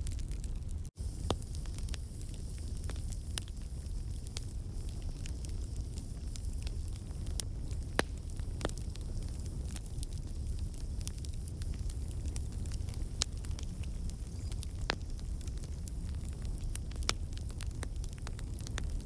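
Wood campfire burning: a steady low rumble of flame with frequent irregular crackles and sharp pops from the burning logs.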